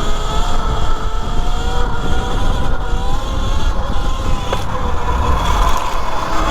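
E Ride Pro SS 3.0 electric dirt bike's motor whining while it is ridden, its pitch wavering slightly with speed, over a low wind rumble on the microphone. A single short click comes about four and a half seconds in.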